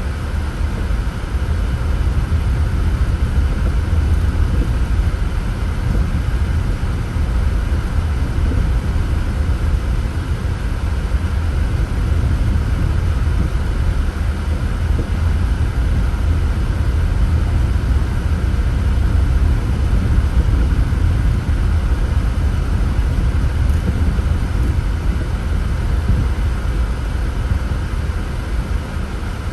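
Steady road and engine noise of a car being driven, heard from inside the vehicle: an even, deep rumble with no breaks or changes.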